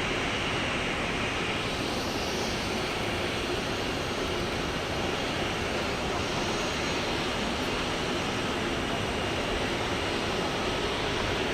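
Steady jet engine noise of a Boeing 737-800 airliner taxiing, its CFM56-7B turbofans at low thrust giving an even roar with a faint high whine.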